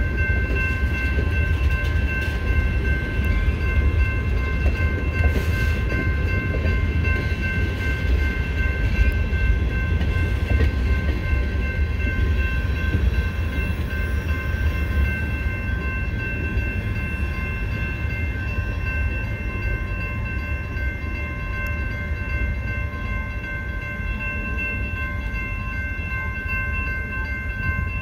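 Freight train of tank cars rolling slowly past, a low rumble and rattle of wheels on rail that eases off as the last cars clear the crossing. A steady ringing from the level-crossing warning bell carries on over it.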